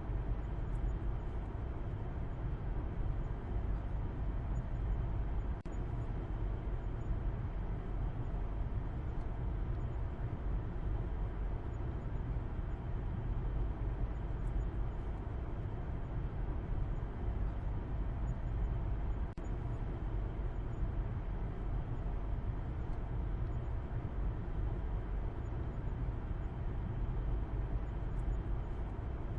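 Steady low rumble of a car driving, a constant blend of road and engine noise.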